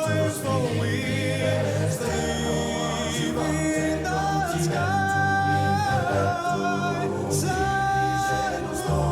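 Recorded vocal music played back through Elfton Vegas II four-way hi-fi loudspeakers: choir-like singing with voices holding sustained notes that change every second or two, over a steady low part.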